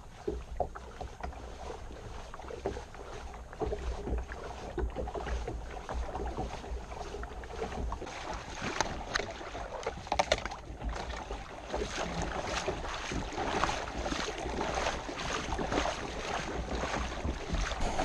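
Splashing footsteps of someone wading through very shallow water while pulling a kayak along, with wind rumbling on the microphone. The splashes come irregularly and get louder and busier about halfway through.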